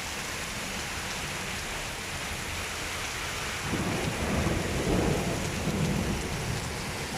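Steady rain falling, with a roll of thunder rumbling in about halfway through, loudest a second or so later, then fading away.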